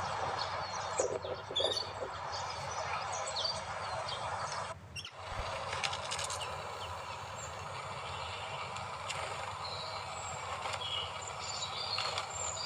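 Many short, high bird chirps scattered throughout, over a steady background hiss and low hum, with a brief drop-out about five seconds in.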